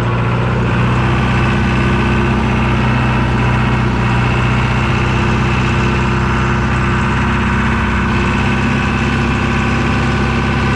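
John Deere tractor engine running steadily at a constant speed. It cuts in suddenly at the start and holds an even, unchanging pitch.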